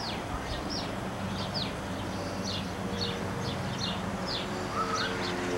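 Small birds chirping again and again in short, quick, downward-sliding chirps, over a low steady hum.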